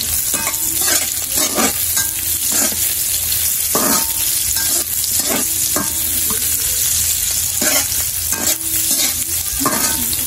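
Garlic and sliced red onion sizzling steadily in hot oil in a nonstick wok, being sautéed. A slotted spatula scrapes and stirs through them in short, irregular strokes.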